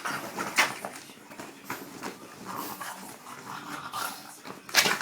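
French bulldog making excited noises while playing with her frisbee, with irregular scrapes and a few sharp knocks, the loudest about half a second in and near the end.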